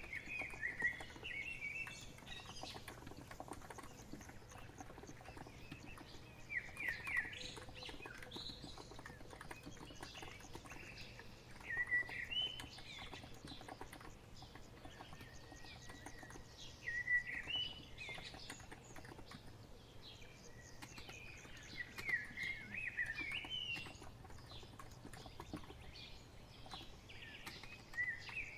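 Steady typing on a COX Empress electro-capacitive keyboard, a soft, dense patter of keystrokes. A bird sings short chirping phrases over it about every five seconds, and these are the loudest sounds.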